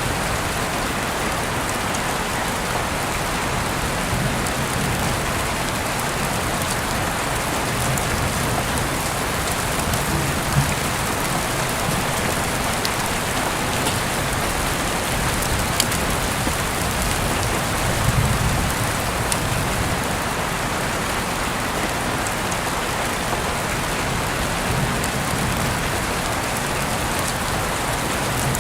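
Heavy rain falling steadily, heard through an open window: a dense, even hiss of rain with scattered drops tapping close by, and a few brief low swells.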